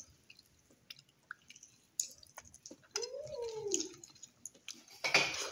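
Wet chewing and lip-smacking of someone eating braised pork hocks, with scattered clicks and smacks. A short high whine that rises and falls comes about three seconds in, and a loud wet noise near the end.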